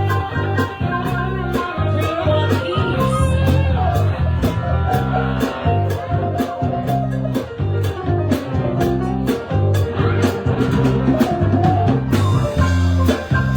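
Live band playing an instrumental passage: electric guitar over bass and a drum kit keeping a steady beat.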